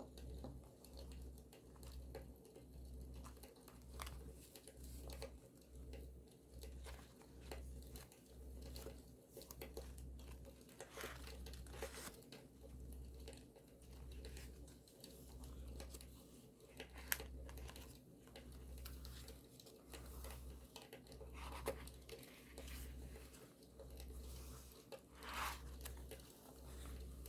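Quiet paper handling for a journal, with tearing and crinkling, mixed with the scattered sharp crackles and pops of a campfire. A low rumble pulses about once a second underneath.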